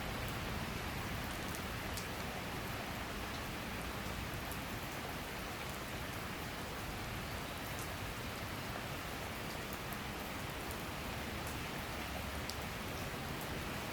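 Heavy summer rain shower pouring steadily, a dense even hiss with scattered sharper drops landing on surfaces.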